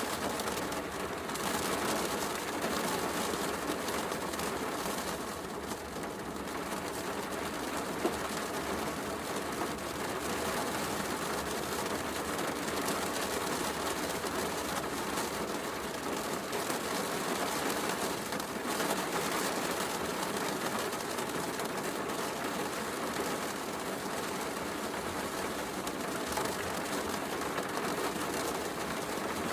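Steady heavy rain with a fireplace crackling, and one sharper pop about eight seconds in.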